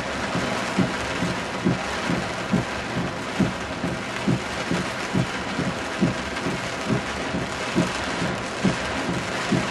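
Heavy rain falling steadily, with a low thump repeating at an even pace a little more than once a second.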